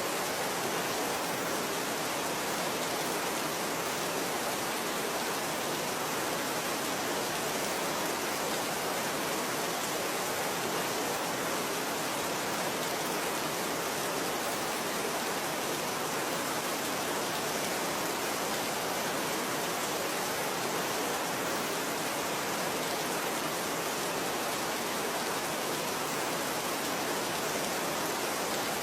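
Steady rain falling, an even hiss of many drops with no distinct splashes or changes.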